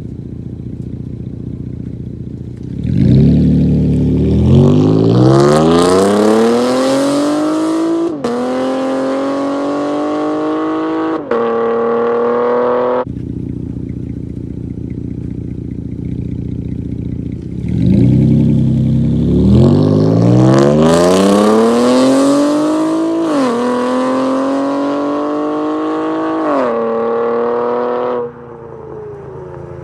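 Straight-piped 3.6-litre V6 of a 2018 Chevrolet Camaro, with loud exhaust, running steadily at first. It then goes through two hard accelerations about fifteen seconds apart, each rising steeply in pitch, dropping back at two gear upshifts and easing off.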